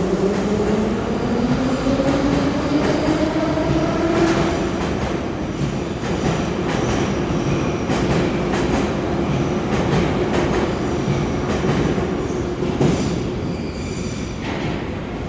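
Moscow Metro train accelerating, its traction motors whining upward in pitch over the first few seconds. After that comes the steady rumble of the wheels on the rails, with clicks from rail joints and some faint high wheel squeal.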